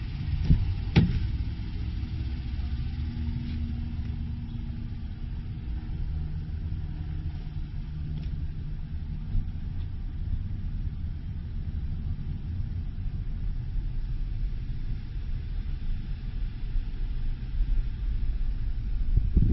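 A vehicle engine idling: a steady low rumble, with one sharp click about a second in.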